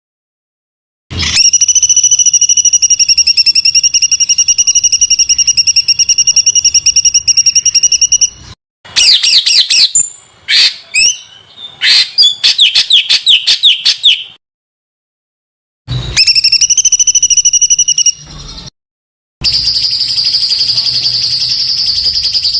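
Songbird singing dense, rough rapid-fire trills in several spliced bursts, each cutting off abruptly into silence. There is a long fast trill, then about five seconds of quick varied chirps and sweeping notes, then two shorter fast trills.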